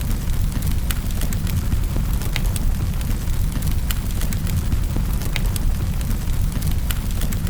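Wood fire burning in a fireplace: a steady low rumble of flame with scattered sharp crackles and pops from the burning wood.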